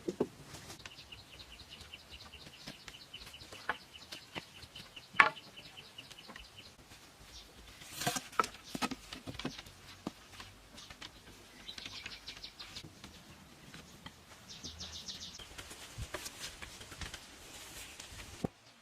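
A bird's rapid high trills in three bouts, the first the longest, over scattered knocks and taps; a sharp knock about five seconds in is the loudest sound.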